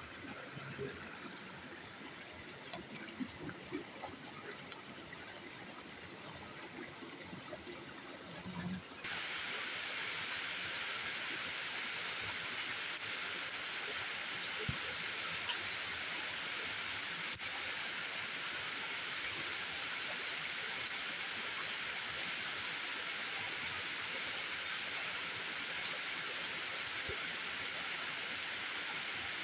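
Steady rushing of water, heavy rain or running water, that comes in abruptly about nine seconds in and holds an even hiss. Before it there is a quieter stretch with a few soft knocks.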